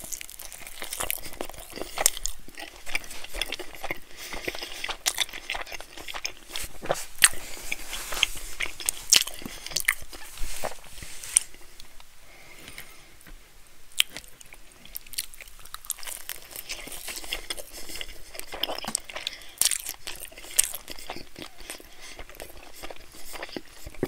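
Close-miked biting and chewing of cheesy bread, the crisp crust crunching in many sharp crackles, easing a little about halfway through.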